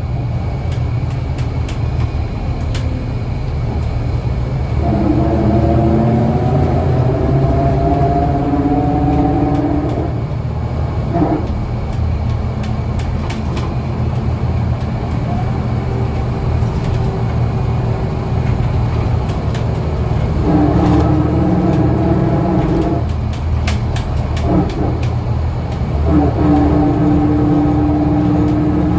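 Scania L94UA bus's diesel engine running under way, with a steady low rumble. A whining tone climbs in pitch three times as the bus accelerates: about five seconds in, about twenty seconds in, and again near the end. Short rattles and clicks are scattered throughout.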